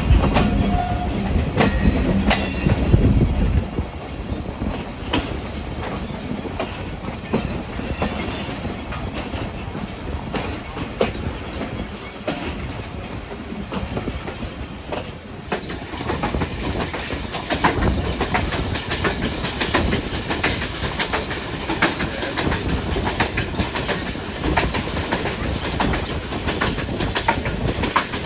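Train running on the rails, its wheels clattering over rail joints in a steady rattle with many sharp clicks. There is a heavier low rumble in the first few seconds, and about halfway through the clatter turns brighter and sharper.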